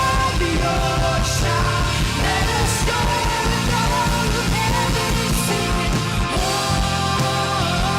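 Live worship band playing a rock-style song with a steady beat and bass, and a voice holding long, gliding sung notes.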